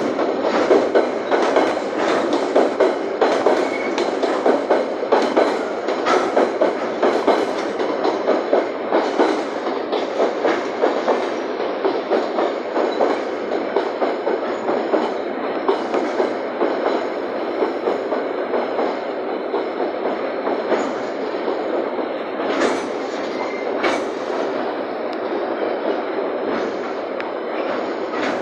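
Empty freight wagons of a long train rolling past, their wheels clacking rhythmically over the rail joints, with now and then a sharper metallic strike. Heavy rain is falling.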